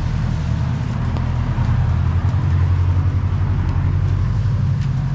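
A motor vehicle's engine running close by, a low steady rumble that swells around the middle, over street traffic noise.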